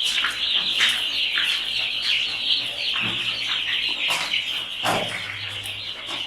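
A crowd of young chicks peeping without a break in a dense, high-pitched chorus, with a few short knocks among them.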